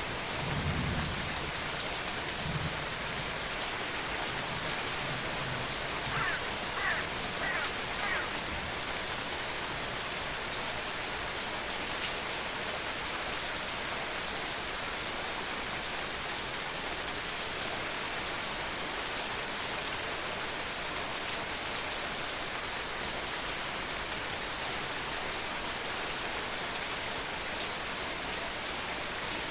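Steady rain falling, with a low rumble of thunder dying away in the first few seconds. A few short, higher sounds come around six to eight seconds in.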